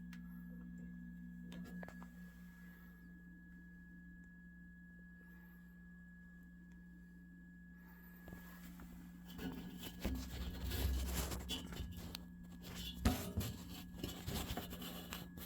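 A steady low hum with a thin high whine over it. From about halfway through, handling noise joins: rustling, clicks and a few knocks.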